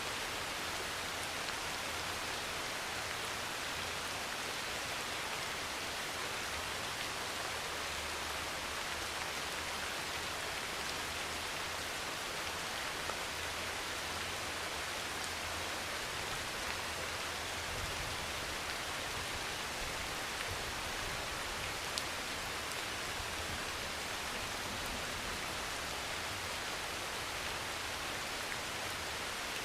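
Steady heavy rain drumming on a metal roof, an even unbroken hiss of drops, with a couple of sharper single ticks, one about halfway through and one about three quarters of the way in.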